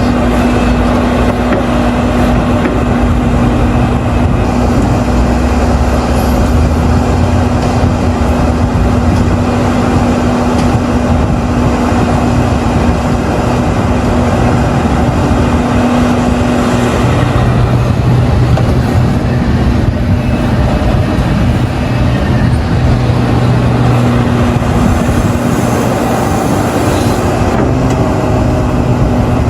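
Large hydraulic mining excavator and dump truck diesel engines running under load. A steady engine tone gives way to a lower drone a little over halfway through.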